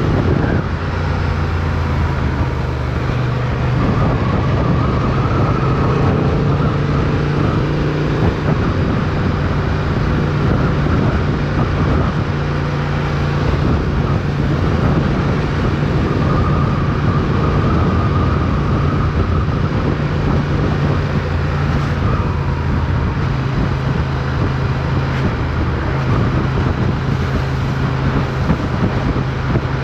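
Motorcycle engine running at a fairly steady pitch with small changes in revs, with wind and road noise.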